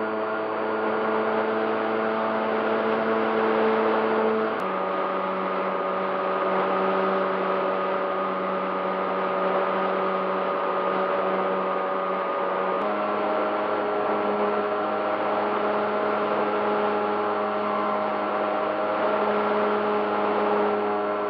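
RC model airplane's motor and propeller running at a steady drone over a hiss of rushing air, heard from a camera mounted on the plane. The pitch drops suddenly about four seconds in and jumps back up past the middle, each change with a click.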